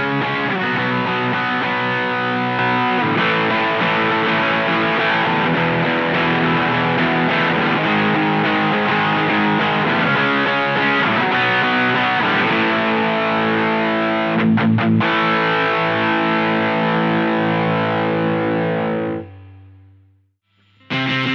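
Distorted electric guitar played through an Electro-Harmonix LPB-1 booster pedal, with chords and riffs ringing on. About 19 seconds in the playing stops and the sound dies away to silence, then the guitar comes back in just before the end.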